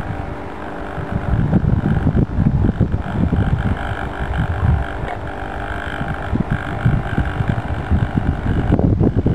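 Wind buffeting the microphone, over a steady whine from the remote-controlled bait boat's small electric motors that cuts off near the end.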